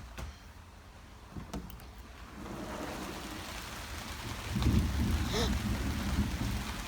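Low rumble of thunder that starts about two seconds in and swells louder about halfway through, over the hiss of rain.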